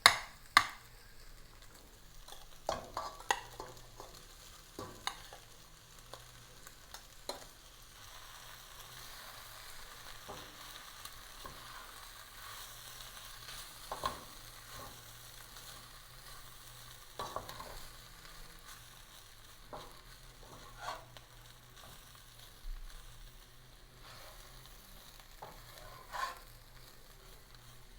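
Stir fry of quinoa, crayfish, egg and vegetables sizzling faintly in a pan while a utensil stirs it, scraping and knocking against the pan every few seconds.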